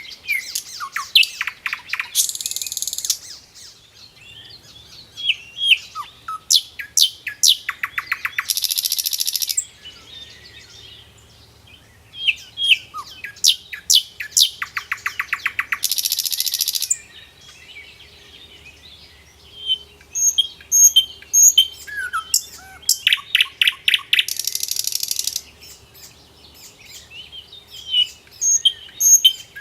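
Songbird singing in repeated phrases: quick, sharp chirps that run into a fast, dense trill, the phrase coming back about every six seconds.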